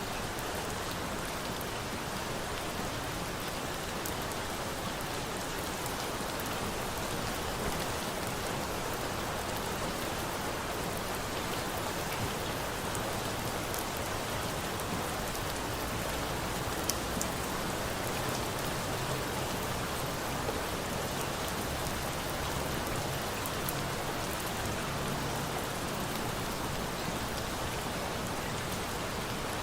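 Steady rain falling in an even hiss, with a few sharper drop ticks, one standing out a little past halfway.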